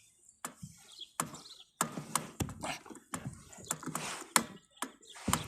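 A dozen or so irregular knocks and clunks of gear being handled against a kayak, with no steady sound between them.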